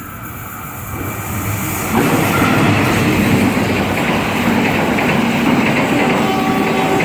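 A train approaching and then passing close by, its wheels running on the rails. The sound grows steadily louder, jumps to full strength about two seconds in, and holds there.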